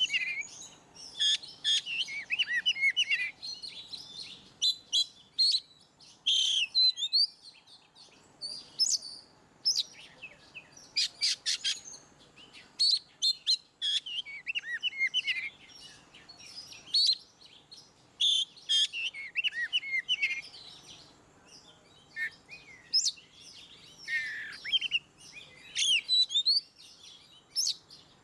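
Oriental magpie-robin (kacer) singing in the loud, open 'ngeplong' style: quick bursts of varied whistles and chatter broken by short pauses, with a run of sharp clipped notes about ten to twelve seconds in.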